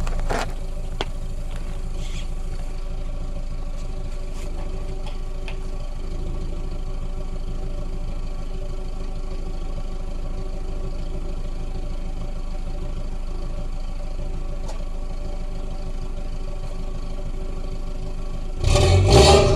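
Audi A3's 1.8-litre turbocharged four-cylinder engine idling steadily through a straight-piped exhaust: 3-inch downpipe, 2.75-inch straight pipe, Cherry Bomb and a gutted Supersprint muffler. About a second before the end it is revved sharply and gets much louder.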